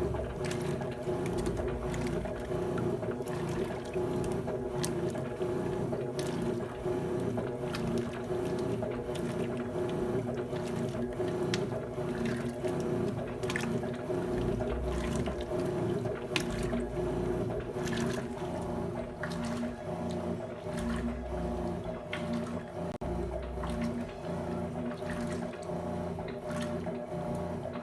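Electrolux Turbo Economia 12 kg top-loading washing machine running with water in the drum: a steady motor hum with water sloshing, scattered clicks and now and then a low rumble.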